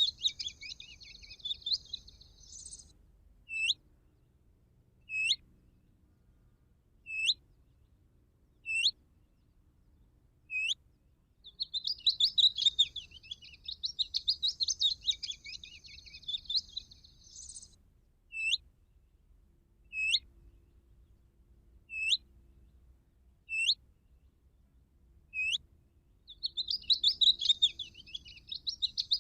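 Recorded small songbird song played from a bird-calling device as a hunting lure: fast high-pitched warbling phrases several seconds long alternate with single sharp call notes about every second and a half to two seconds, the pattern repeating like a loop.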